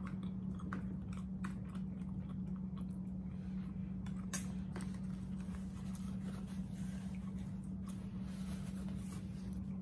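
A person chewing food close to the microphone, with scattered small clicks and mouth noises, over a steady low hum.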